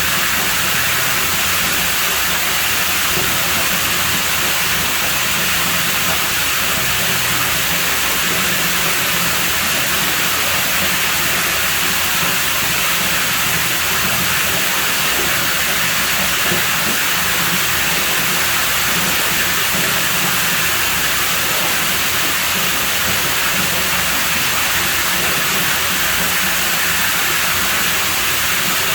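Pool water running in a continuous, even rush, steady throughout with no breaks.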